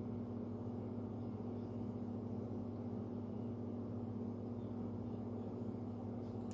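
A steady low background hum with no change in level, and a faint tick near the end.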